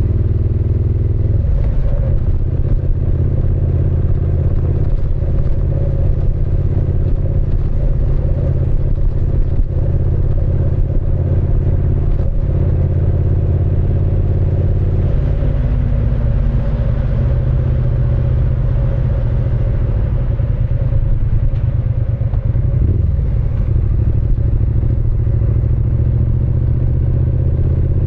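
Triumph Speed Twin 900's 900 cc parallel-twin engine and exhaust running steadily and loudly. Its note shifts in pitch a few times, about 1.5 s in, midway and near the end.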